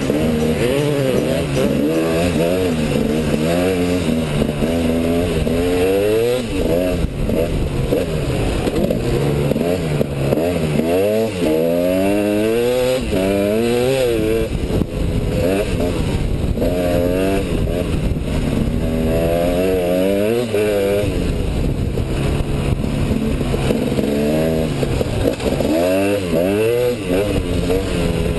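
KTM 250 EXC two-stroke enduro motorcycle engine riding through sand, its pitch rising and falling again and again as the throttle is opened and closed.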